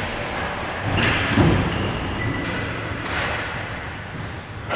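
Game-play background noise with one heavy thud about a second and a half in.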